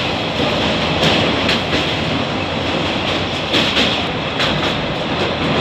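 Railway brake van running across a steel truss bridge: a steady, loud rumble and rattle with wheel clicks scattered through it.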